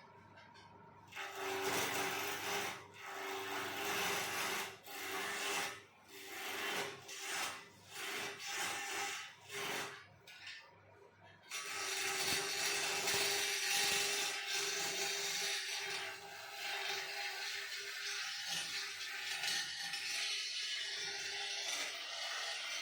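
Wood-turning lathe running with a steady hum while a turning tool cuts the spinning wood: a series of short scraping passes for the first ten seconds or so, then one long continuous cut.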